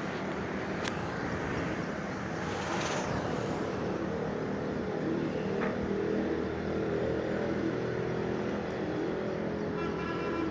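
Road traffic: a motor vehicle's engine running steadily under a constant noisy background, a little louder in the middle.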